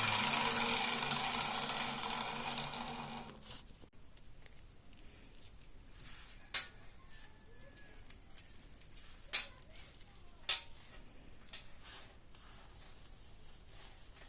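A power tool's motor noise fading away over the first few seconds. After that come a few scattered sharp clicks and taps, two of them louder than the rest.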